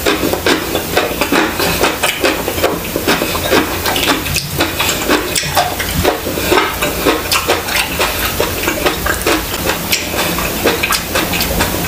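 Close-miked chewing: wet mouth clicks and smacks repeating about three times a second, as a mouthful of food is eaten.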